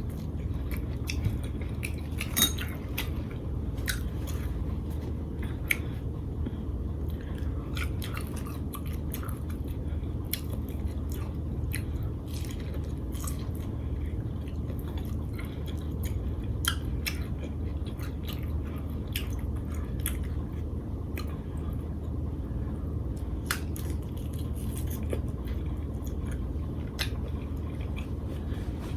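Close-miked chewing and lip-smacking on lobster tail in butter sauce, a steady run of small wet clicks with a sharper bite about two and a half seconds in, over a steady low hum.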